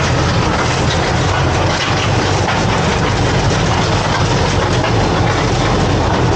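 Rail vehicle running along the track: a steady running noise with the wheels clicking over the rail joints.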